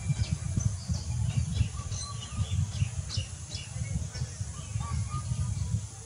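Small birds chirping in short falling notes, several in quick succession about one to four seconds in, over a loud, low, crackling rumble that stops abruptly at the end.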